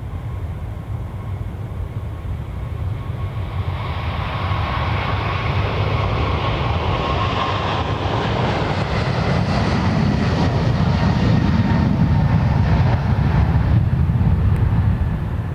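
Jet airliner passing close by with its engines running. A faint whine slowly sinks in pitch while the rumble and roar build, loudest in the later seconds, then begin to ease near the end.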